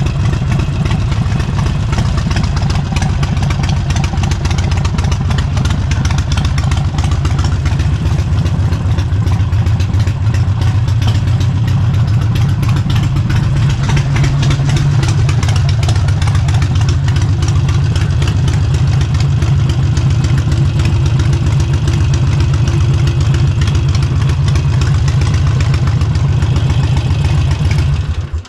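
Harley-Davidson Forty-Eight's air-cooled V-twin, through an aftermarket exhaust, running steadily at low revs, then cutting off abruptly near the end.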